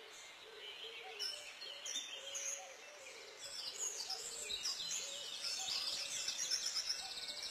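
Birds chirping and singing, many short calls overlapping, with a lower call repeating every half second or so. The chirping grows busier about halfway through.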